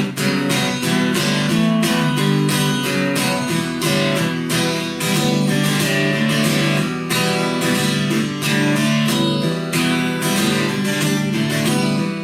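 Acoustic guitar strummed in a steady country rhythm, an instrumental break in the song with no singing.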